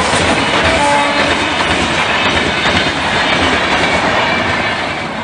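Passenger train hauled by an electric locomotive passing at speed: a steady, loud rushing rail noise that begins to fade near the end.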